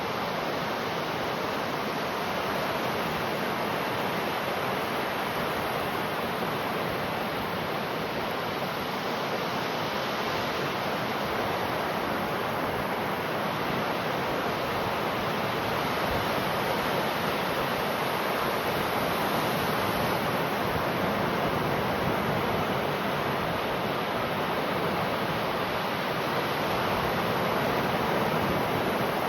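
Ocean waves washing ashore: a steady rushing surf that swells gently in loudness now and then.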